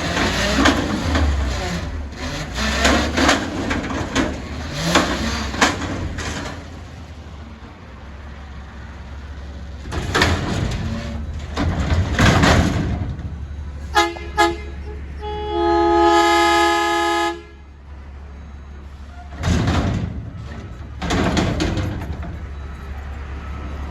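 Garbage truck's diesel engine running steadily, with loud clattering bangs in the first few seconds and again later. About halfway, a vehicle horn gives two short toots and then a long honk of about two seconds.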